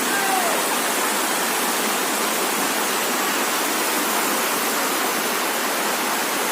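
Dassam Falls waterfall: a steady, unbroken rush of falling water.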